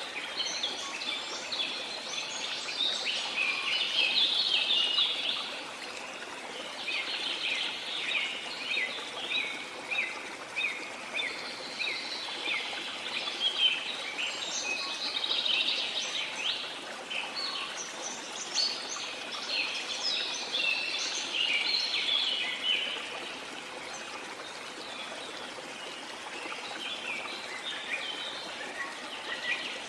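Birds chirping rapidly in overlapping bouts over a steady rush of falling water, with a lull in the birdsong a little after the middle.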